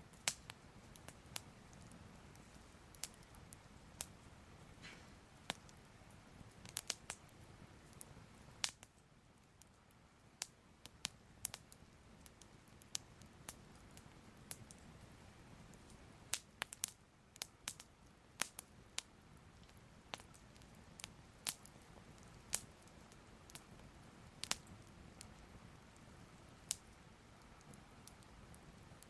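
Soft crackling fire: irregular sharp crackles and pops, some in quick clusters, over a low steady hiss.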